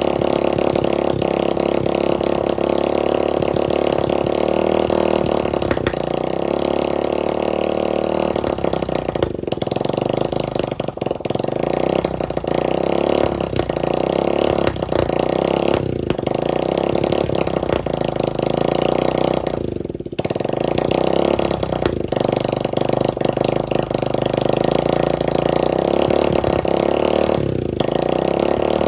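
Dirt bike engine running with no exhaust pipe fitted and an open carburetor without an air filter. It holds a loud, steady run and briefly drops off several times, most deeply about two-thirds of the way through.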